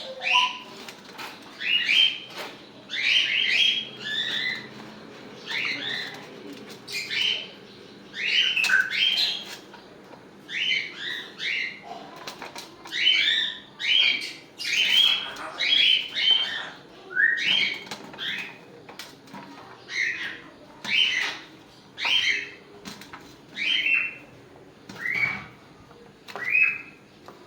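A pet parrot calling over and over, short sharp calls coming about once a second, some with two or three quick notes gliding up or down.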